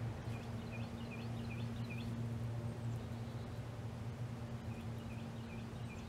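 A bird sings a quick series of about six short, repeated notes, then about four more near the end, over a steady low hum.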